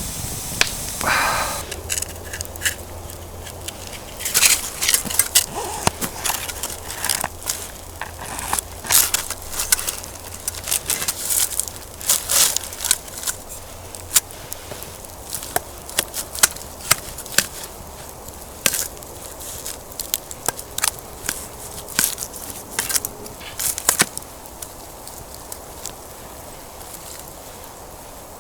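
Wood campfire burning on snow, crackling with many irregular sharp pops over a steady hiss; the pops thin out near the end.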